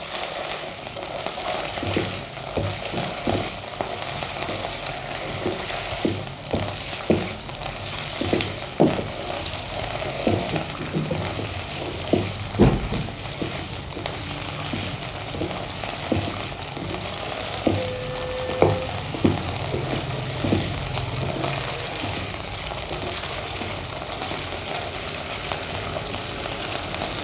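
Boneless chicken pieces sizzling in hot oil in a kadhai, with a wooden spatula scraping and knocking against the pan at irregular moments as they are stirred.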